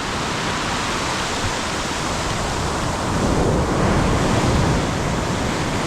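Heavy ocean surf breaking and washing up the beach, a continuous rushing wash of foamy water that swells about three seconds in, with the backwash pulling hard at the water's edge.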